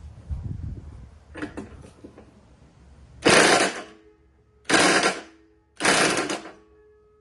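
Power tool run in three short bursts of under a second each, about a second apart, with a faint steady tone lingering between and after them. Quieter clicks and handling knocks come before.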